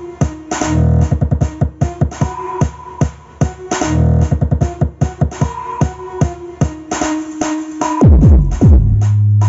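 Electronic dance music with a fast, steady drum-machine beat and heavy bass played through a Sony FLX9W mini hi-fi system. Near the end the bass drops in a run of falling glides, then holds one deep note.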